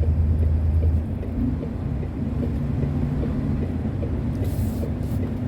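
Truck engine running, heard from inside the cab as a low drone. About a second in, the engine note drops in level and changes, as if the throttle is eased, then it runs on steadily.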